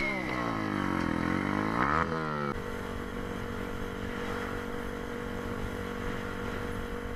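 Motorcycle engine: the revs drop and then climb over the first two seconds, then at about two and a half seconds give way abruptly to a steady, even engine note.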